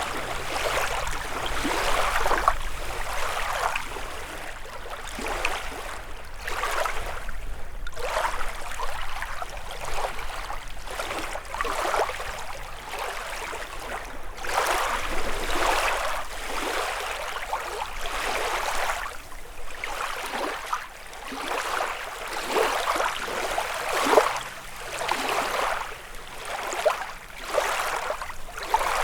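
Small waves lapping against a lakeshore, in irregular splashes every second or two.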